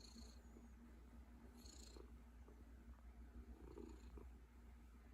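Domestic cat purring faintly and steadily, a low rumble with a soft swell about every two seconds as it breathes in and out.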